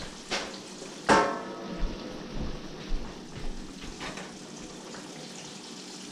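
Breaded fish frying in oil in a cast iron skillet, a steady sizzle. About a second in there is one loud clank that rings briefly, and then several lighter knocks and clatters from the kitchen counter and stove.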